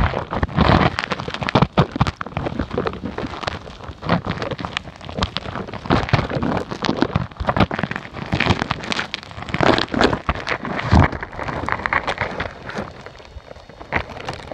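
Rain falling, with drops hitting close to the microphone as dense, irregular pops and crackles.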